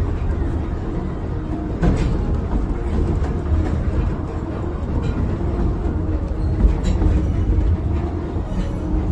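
Miniature tourist train running on its track: a steady low rumble of wheels on rails, with a few faint clicks.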